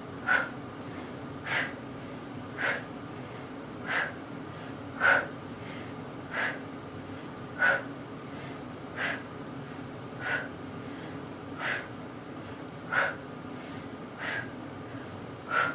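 A person's sharp, rhythmic breaths while exercising, about one every 1.3 seconds, over a steady low hum.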